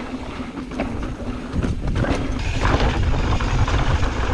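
Mountain bike riding a dirt trail: steady wind rumble on the camera's microphone, with the bike and tyres clattering over the rough ground.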